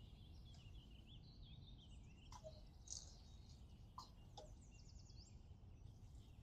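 Near silence with faint birds chirping and trilling, and three light clicks, about two and a half and four seconds in.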